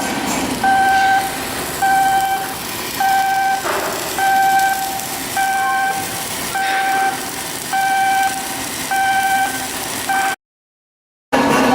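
Electronic warning beeper from yard machinery sounding one pitched tone of about half a second, repeated roughly once a second over steady background noise. It cuts out completely for about a second near the end.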